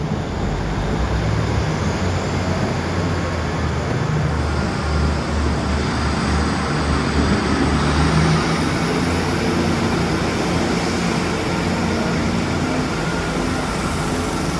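A train running close by: a loud, steady rush of wheel and rail noise over a low rumble, with a faint high whine rising about halfway through.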